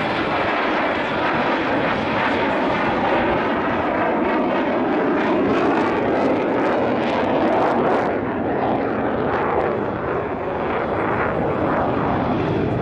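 Jet noise of the Mitsubishi XF-2 fighter flying a display maneuver: the loud, steady rush of its single General Electric F110 turbofan, taking on a crackling edge around the middle.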